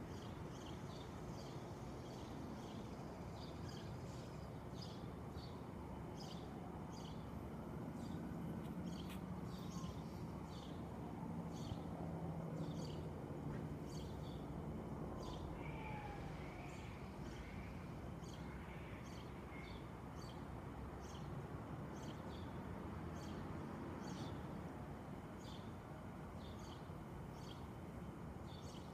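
A small bird chirping over and over at a steady pace, about one to two short high chirps a second, over the low steady hum of city background noise.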